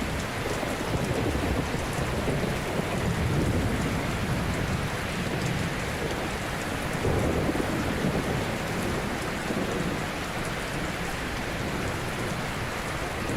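Ocean surf: a steady wash of waves breaking on a shore, with a low rumble that swells up twice, about three and seven seconds in.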